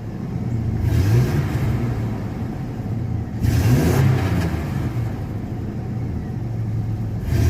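Chevy 4.3 L Vortec V6 in an S10 pickup, heard from inside the cab while driving, its revs rising and falling a few times as it accelerates. The engine stumbles erratically under acceleration: a random misfire, which the owner is trying to cure by advancing the ignition timing.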